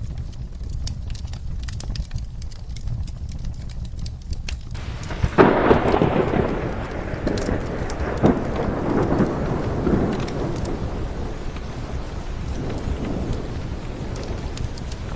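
Fire crackling in a fireplace over steady rain, with sharp scattered crackles. About five seconds in, a thunderclap breaks loudly and rumbles on for several seconds, slowly fading.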